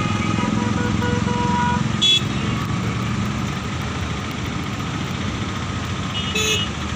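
Roadside traffic: a motor vehicle's engine runs past in the first couple of seconds, with short horn toots about two seconds in and again near the end.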